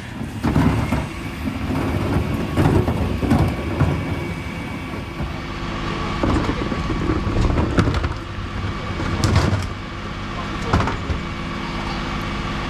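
Dennis Elite 6 refuse truck running steadily, with repeated knocks and clatters over the engine hum.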